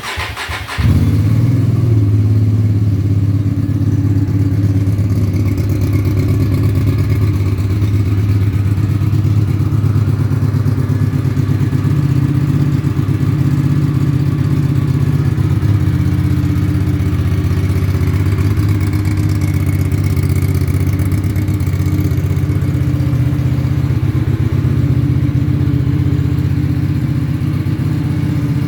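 2014 Hyosung GV250's 250 cc V-twin engine on a cold start: a brief burst of cranking, then it catches about a second in and idles steadily and evenly.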